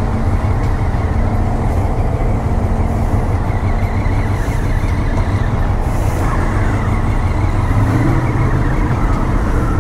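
KTM Duke 390's single-cylinder engine running as the motorcycle rides off, a steady low rumble mixed with wind noise on the rider's microphone.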